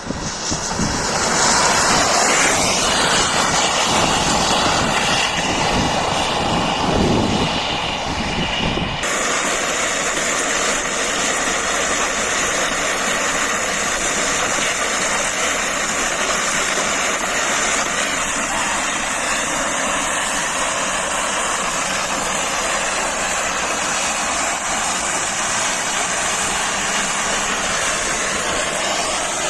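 Steady loud rushing noise of a vehicle on the move. A heavy low rumble drops away abruptly about nine seconds in, leaving a steadier hiss.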